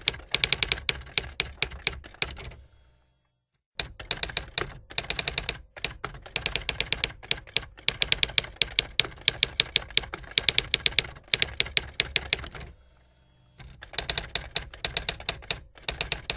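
Rapid typing: fast runs of sharp keystroke clicks, several a second, stopping briefly about three seconds in and again near thirteen seconds.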